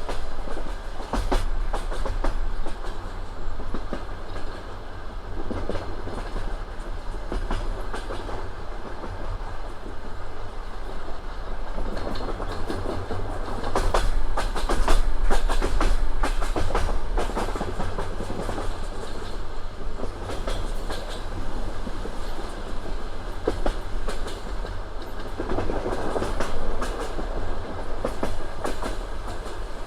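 Passenger train wheels rolling over rail joints: a steady rumble with a running clickety-clack of wheel knocks.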